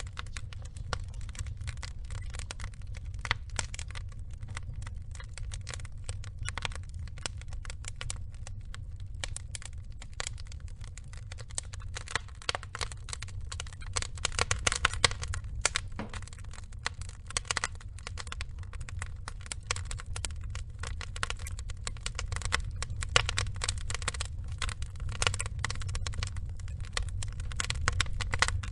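Wood logs burning in a fire, with a steady low rumble of flame and dense, irregular crackling and snapping, some pops louder than the rest.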